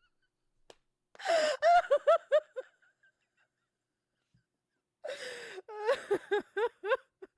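A woman laughing hard in two bouts, each starting with a breathy gasp and breaking into quick, high-pitched pulses of laughter.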